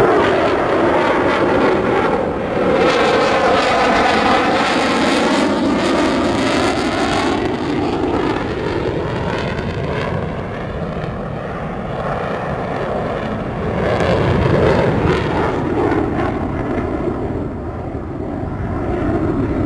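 Eurofighter Typhoon's two EJ200 turbofan engines running at high power in a display flight. The loud roar sweeps up and down in pitch as the jet moves past, and eases slightly now and then.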